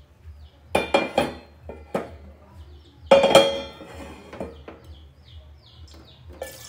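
Metal kitchen pans and utensils clinking and clattering as they are handled: several sharp knocks, then a louder clatter about three seconds in that rings briefly.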